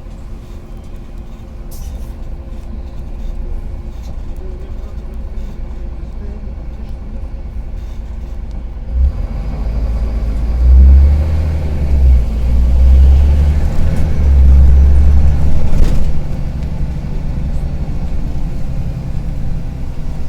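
Karsan Avancity+ articulated city bus engine running with a rattling, crackling note. It runs low at first, then about nine seconds in it swells to a much louder, deeper rumble for several seconds, as under acceleration, before easing back.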